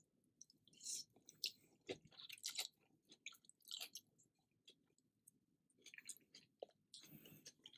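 Faint close-miked chewing: a person eating, with a string of small wet clicks and smacks, the strongest about a second in and again between two and three seconds.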